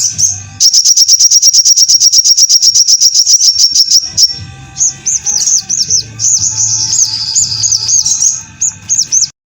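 Brown-throated sunbird (sogok ontong) song: a fast, even trill of high notes lasting about three and a half seconds, then a run of high looping chirps that cuts off suddenly near the end. A faint low hum lies underneath.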